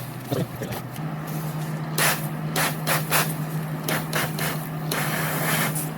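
Several sharp knocks and scrapes of tools on metal, with a hiss building near the end, over a steady low hum that starts about a second in.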